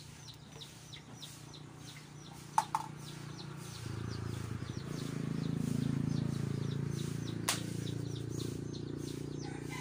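Rapid high chirping of small birds or chicks, several chirps a second, with two sharp clicks. About four seconds in, a low rumble comes up, loudest around six seconds, and carries on to the end.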